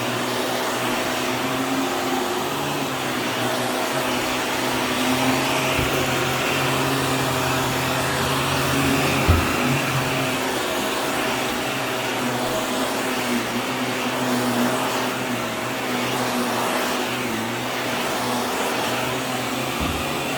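Vacuum cleaner running steadily with a constant motor hum, with a couple of light knocks partway through.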